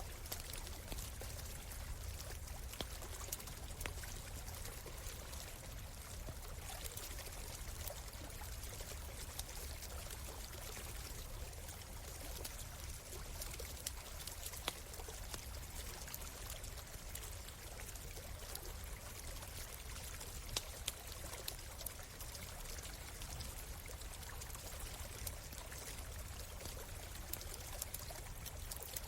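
Shallow stream running steadily, with occasional sharp crackles from a campfire.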